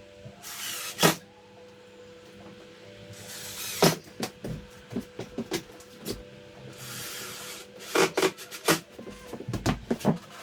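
Wood and tools being handled while fitting a door jamb extension: a series of knocks and clicks, thickest near the end, with three short scraping sounds.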